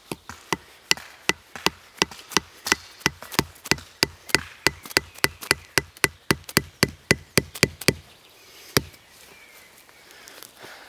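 A hand tool striking wood in quick, regular blows, about three to four a second for some eight seconds, then one last blow after a short pause.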